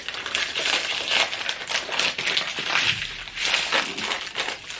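Plastic dessert packaging being handled and opened: continuous crinkling with many small irregular clicks.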